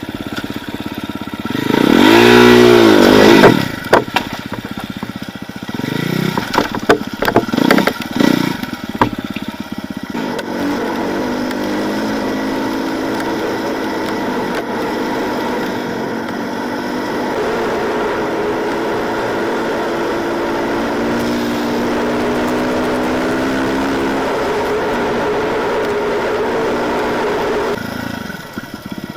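Enduro motorcycle engine revved up and back down once about two seconds in, then sharp knocks and clatter for several seconds, then the engine running at steady revs for most of the rest, dropping away near the end.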